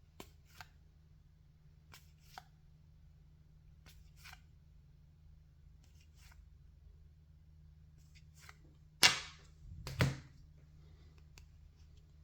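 Baseball trading cards being handled and flipped through: scattered soft taps and flicks, with two sharper snaps about nine and ten seconds in, over a faint low hum.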